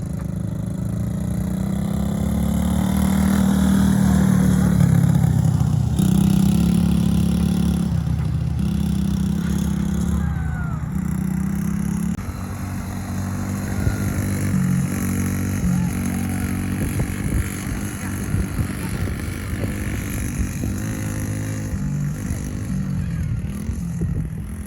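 Mini quad's small engine running under load, its pitch rising and falling as the throttle is opened and eased off, loudest a few seconds in.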